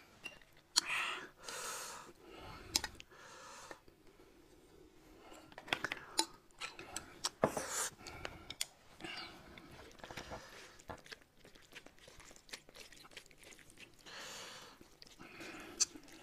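Close-miked eating sounds: chewing and mouth noises, with scattered sharp clicks of chopsticks against a jar and dishes.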